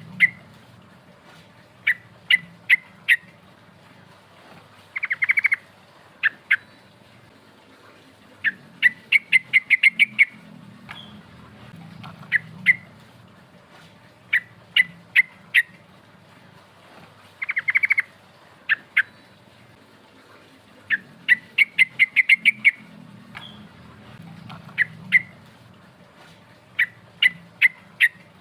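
Yellow-vented bulbul (trucukan) singing: bursts of loud, sharp chirps, a few to about eight notes at a time, repeated every second or two, some run together into quick rattling trills. This is the bird's challenging song, which calls out rival birds.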